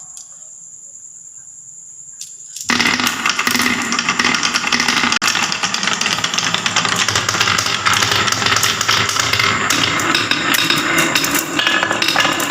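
Many marbles clattering and rattling down a marble run track, a dense stream of clicks and knocks that starts suddenly about two and a half seconds in after a quiet opening.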